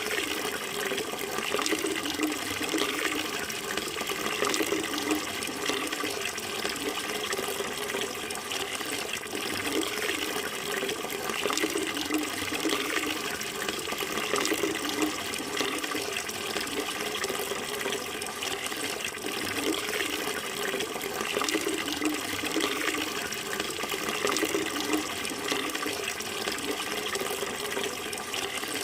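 Running water flowing steadily and evenly, with no pauses.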